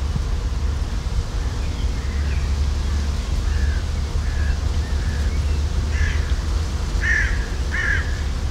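A bird giving a series of short calls that grow louder toward the end, the three loudest about a second apart, over a steady low rumble.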